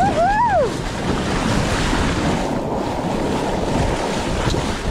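Wind buffeting the microphone over ocean surf, a steady rushing noise. Right at the start a short vocal cry rises and falls in pitch.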